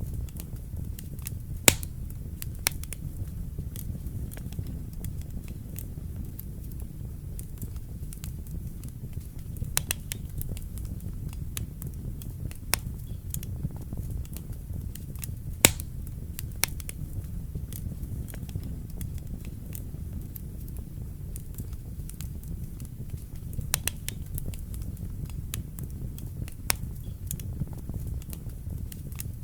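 Wood fire burning in a fireplace: a steady low rumble of flame with scattered sharp crackles and pops from the burning logs, the loudest pops about two seconds in and about halfway through.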